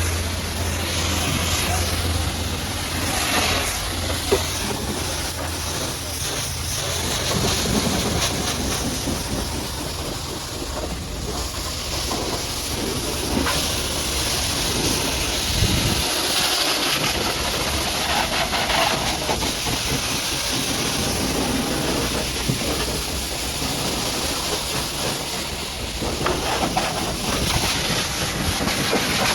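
High-pressure washer jet spraying water onto a muddy truck: a steady, loud hiss of water, with a low hum underneath that drops away about halfway through.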